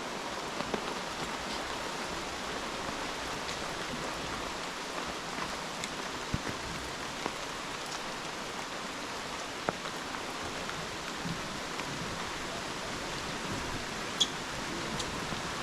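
Steady rain falling on rainforest foliage, with scattered louder drops ticking close by.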